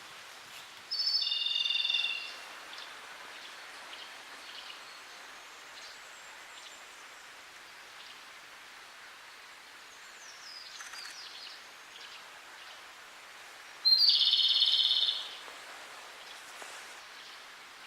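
Japanese robin singing: two loud, high-pitched song phrases about a second long, one near the start and one about thirteen seconds later, over a steady outdoor hiss, with fainter bird calls between them.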